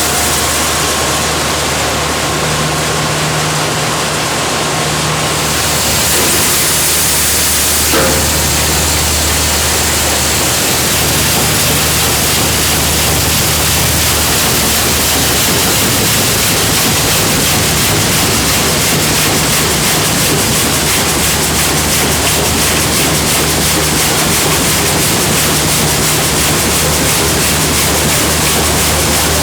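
Food-factory machinery running steadily: a loud, even rushing noise over a low hum, with a single short click about eight seconds in.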